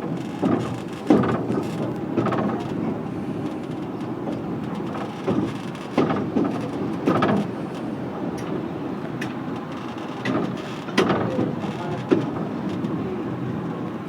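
A heritage railway train in motion, heard on board: a steady rumble of wheels on track with irregular clanks and knocks every second or two.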